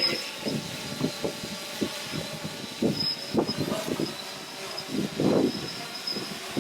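Strong wind buffeting the microphone in irregular gusts, over a faint steady high-pitched whine from the 3DR Solo quadcopter's electric motors and propellers.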